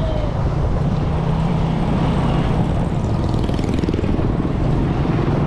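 A motor vehicle's engine running steadily under way, a continuous low drone with rushing noise.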